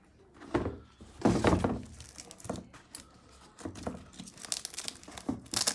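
Irregular rustling and crinkling with several dull knocks: high-top calfskin sneakers and their packaging being handled.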